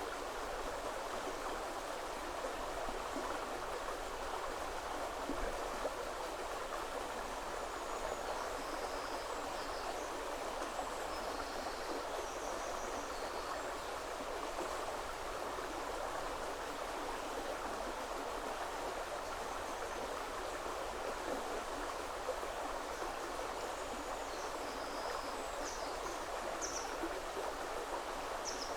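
River water flowing steadily over its bed in an even, unbroken rush. Faint, high bird chirps come in over the water about a third of the way in and again near the end.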